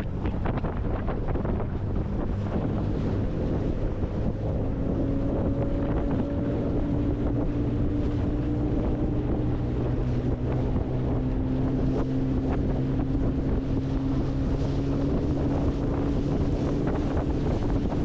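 A small fishing boat's motor hums steadily under heavy wind buffeting the microphone, with occasional small knocks of water against the hull.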